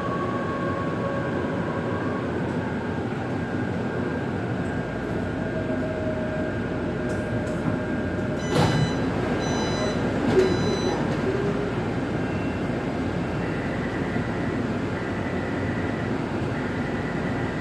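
Steady hum inside a stationary Taipei Metro C381 metro car, from its running ventilation and onboard equipment. A short knock with a brief high tone comes about eight and a half seconds in, and another small knock about two seconds later.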